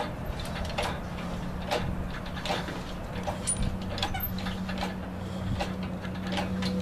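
A jack being worked to lift a Mazda Miata's body, giving irregular clicks and knocks, about one or two a second, over a steady low hum.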